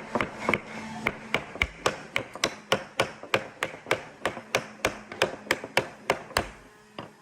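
Rapid, even hammering on wood, about three or four blows a second, stopping about six and a half seconds in.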